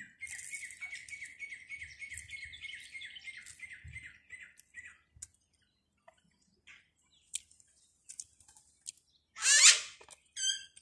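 Bird giving a rapid trill of short chirps for about five seconds, then a few scattered chirps. About nine and a half seconds in, a short burst of sound comes, louder than the trill.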